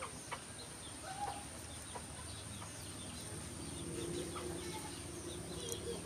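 Faint, scattered short bird calls and chirps, with a low steady hum that grows louder about halfway through.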